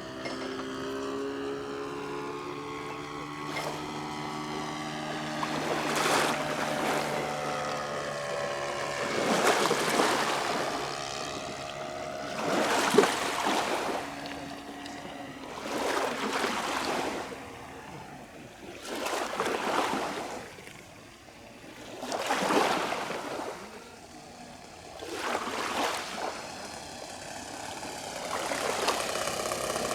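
Radio-controlled seaplane's small FG-11 four-stroke gasoline engine running, its pitch shifting, with a rushing noise that swells and fades about every three seconds.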